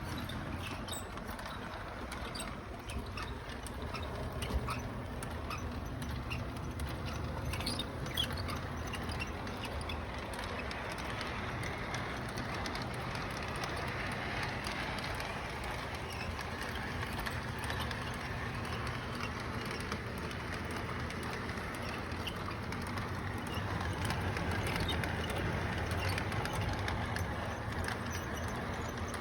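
Small electric motor of a model vehicle running steadily with a low hum, along with light irregular clicking and rattling.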